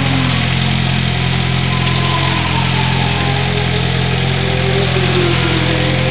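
Car engine idling steadily, heard from inside the car. In the second half a fainter engine note rises and falls over it.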